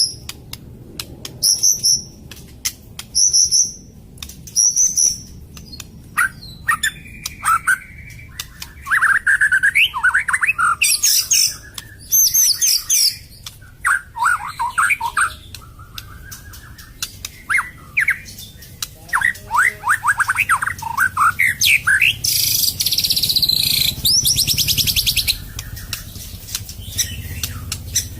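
A white-rumped shama of the Medan type (murai batu medan) singing a long, varied song full of mimicked phrases of other birds. Quick ticks and short high notes come first, then clear whistled and gliding phrases, and a dense, rapid rattle a little past two-thirds of the way through.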